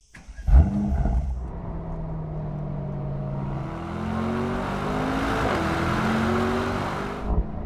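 Mercedes-AMG SL's twin-turbo V8 engine starting with a loud burst about half a second in, then running and slowly climbing in revs, easing off just before the end.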